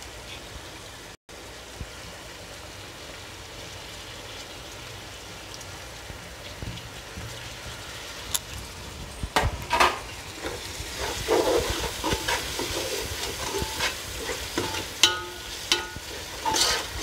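Chicken masala sizzling in oil in an aluminium pot, a steady soft hiss. From about halfway in, a metal slotted spoon stirs it, clinking and scraping against the pot, and the sizzling grows louder as it is turned.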